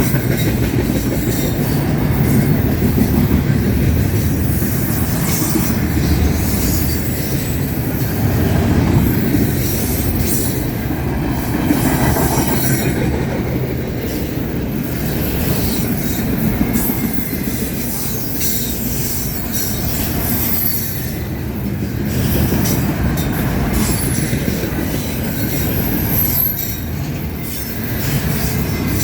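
A train's cars rolling past with a steady rumble and frequent clicks of wheels over rail joints. Faint high wheel squeals come in about halfway through and again near the end.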